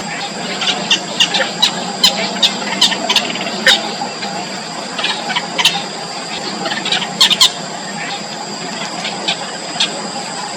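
Four-day-old nestlings giving thin, high-pitched begging squeaks in quick irregular clusters, over a steady high-pitched tone in the background.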